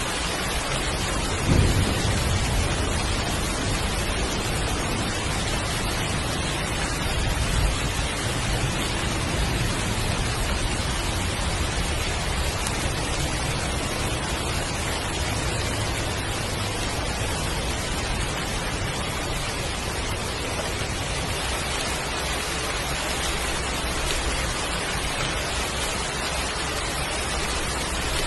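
Heavy rain falling steadily, with a thunderclap about a second and a half in and a second, smaller rumble of thunder around seven seconds in.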